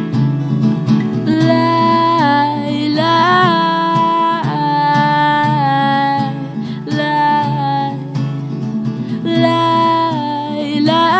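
Acoustic guitar strummed live with a woman singing over it. Her voice comes in about a second in with long held, wordless notes that slide between pitches.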